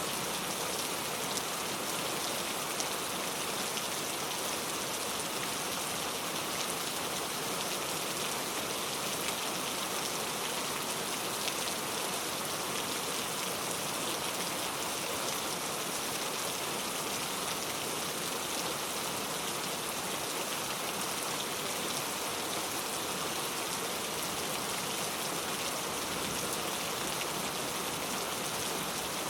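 Heavy rain falling steadily, a dense even patter of drops on a leaf-covered road.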